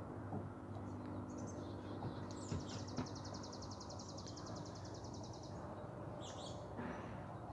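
A bird sings a rapid, even trill lasting about three seconds, with short high chirps just before and after it, over a steady low hum. A couple of soft knocks come near the start of the trill.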